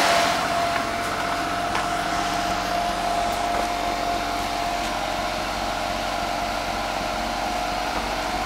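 Ford Taurus engine running steadily at a raised speed of about 2,000 rpm with a steady whine, heard from the exhaust end. Water is being fed into its intake to steam-clean carbon from the combustion chambers, so the tailpipe is blowing steam and dislodged carbon.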